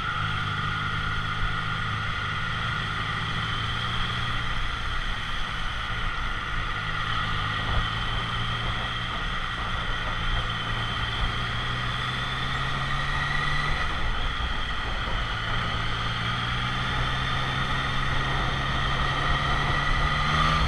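Triumph Daytona 660 inline-three motorcycle engine running steadily at low road speed. It eases off briefly about two-thirds of the way through, then its pitch climbs slowly as it picks up again.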